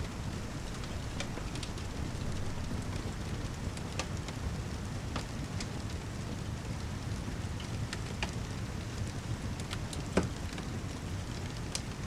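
Steady rain with a low rumble, mixed with a log fire crackling: scattered sharp pops, one louder pop about ten seconds in.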